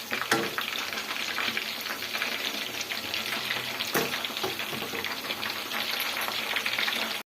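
Chicken lollipops deep-frying in hot oil: a steady crackling sizzle. Two sharp clicks stand out, one just after the start and one about four seconds in.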